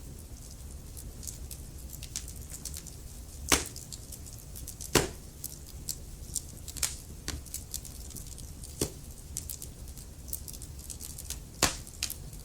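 Wood fire crackling in a fireplace: a steady low rumble of burning with frequent small crackles and a few louder pops.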